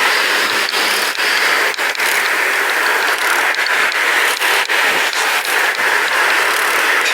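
Pedal bicycle's freewheel hub ticking as the rider coasts, under a steady rush of wind and tyre noise, with sharp irregular clicks and rattles throughout.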